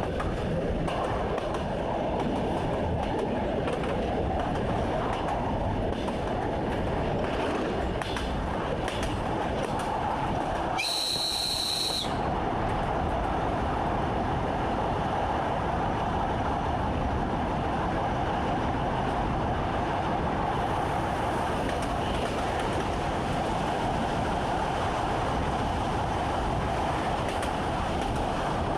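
Electric commuter train running along the line, heard from inside the driver's cab: a steady rumble with wheel noise on the rails. A brief high tone sounds about eleven seconds in.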